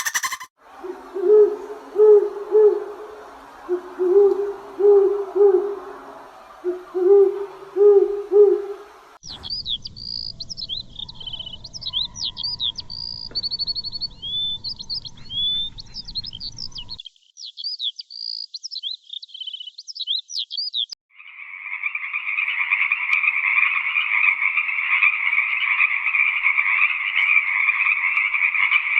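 A sequence of animal calls: an owl hooting, low hoots in runs of three or four, for about nine seconds; then a small bird's quick high chirping song; then, after a short pause, a frog chorus in a dense steady croaking.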